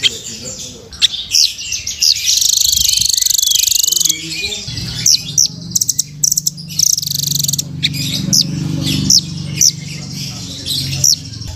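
Velvet-fronted nuthatch (rambatan) calling: a string of sharp, high chirps with a fast rattling trill about two seconds in. This is a song tutor recording for training captive birds. A low droning sound runs underneath through most of the second half.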